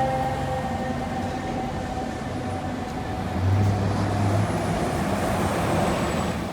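Fire truck on a call: its siren tone slowly falls and dies away in the first second or two, leaving the rumble of the heavy truck and street traffic, with a brief low drone about halfway through.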